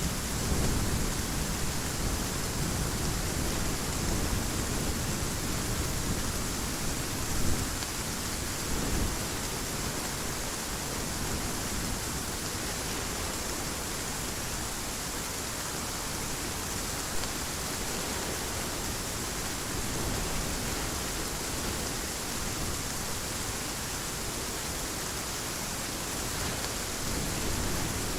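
Heavy rain falling in a steady hiss, with low rolling thunder rumbling through the first third and swelling again near the end.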